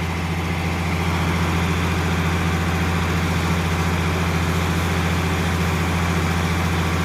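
Scrap car press running steadily as its lid lowers under remote control, a constant low machine hum with no change in pitch.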